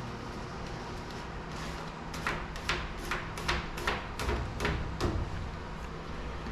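Vinyl wrap being smoothed onto a race car's body panel: a run of about eight quick rubbing strokes, two to three a second, starting about two seconds in and stopping about five seconds in, over a steady low hum.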